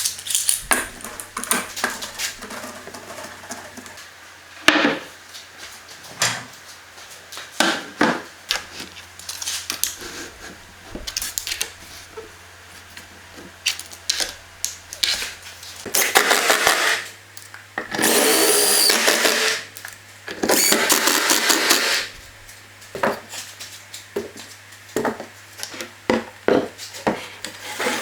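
Woodworking shop sounds: scattered knocks and clicks of tools and wood being handled, broken about two-thirds of the way through by three short runs of a power tool, each a second or so long.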